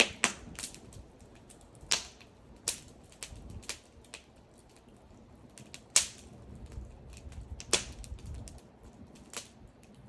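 Wood bonfire crackling: irregular sharp pops and ticks from the burning wood, with a few louder snaps, over a faint low rumble.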